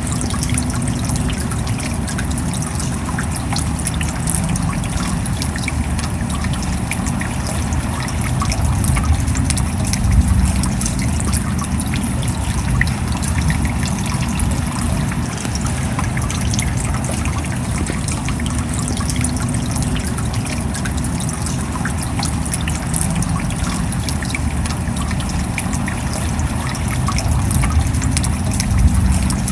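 Steady rain falling: a dense patter of drops over a low rumble, swelling briefly about ten seconds in and again near the end.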